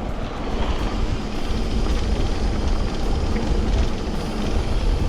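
Steady wind rush on the microphone with tyre and road noise from a bicycle being ridden along.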